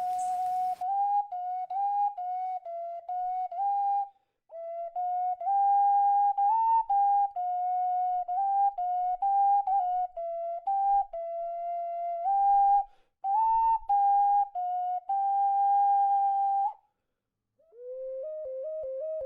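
Solo melody in a pure, flute-like tone, one note at a time in short stepped phrases separated by brief pauses. Near the end it drops to a lower register and goes on more softly.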